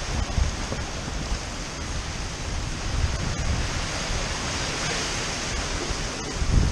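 Tropical-storm wind gusting over heavy surf, the gusts buffeting the microphone with a low rumble.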